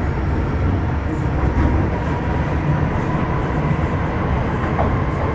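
Metro Cammell M-Train electric multiple unit with GEC GTO chopper traction, heard from inside the car while running between stations. There is a steady low rumble of wheels and running gear, with a faint steady high tone above it.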